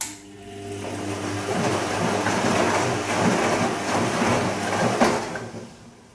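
Bosch Serie 2 Vario Perfect washing machine's drum motor switching on with a click and turning the drum through a gentle Silk-program wash action, with a humming motor and tumbling laundry. It stops after about five and a half seconds with a knock just before the end.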